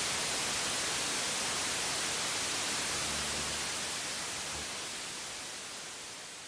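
Steady hiss of static-like noise, fading out over the last two seconds or so.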